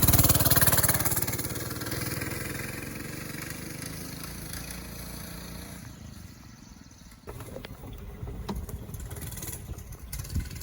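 Pit bike engine running loud, then fading away steadily over several seconds as the bike moves off. A rougher, uneven low rumble with a few knocks follows.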